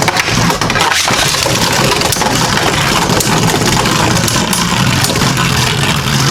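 Two Beyblade Burst Turbo tops, Kerbeus K4 and Blizzard-X Gaianon, spinning and clashing in a plastic stadium: a steady rattling, scraping whirr full of rapid clicks as they grind and knock against each other and the stadium walls.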